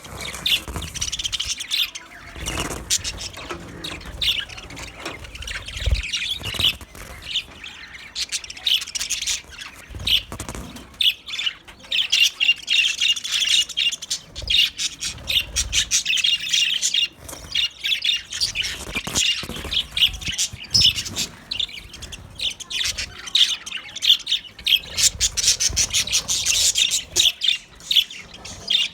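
A flock of budgerigars chattering: a dense, continuous run of quick chirps, squawks and warbles, busiest about twelve seconds in and again near the end, with occasional low bumps underneath.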